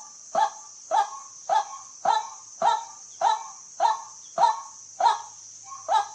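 White-breasted waterhen calling, a short harsh note repeated about twice a second in an even series. A steady high hiss runs underneath.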